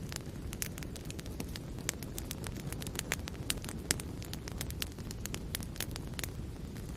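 Wood fire in a fireplace crackling steadily, sharp pops and snaps coming several times a second over a low rumble of the flames.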